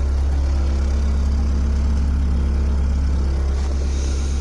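LPG engine of a Linde H30 forklift idling steadily just after a cold start, following five days standing in freezing weather.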